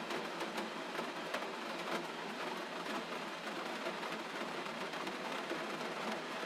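Steady gentle rain: an even hiss with many small, irregular drop ticks.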